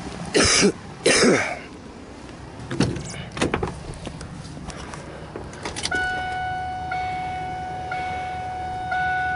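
A couple of loud handling noises and a few clicks in the cab of a 2000 Ford F350, then, about six seconds in, the truck's electronic warning chime starts: a steady pitched tone that blips about once a second.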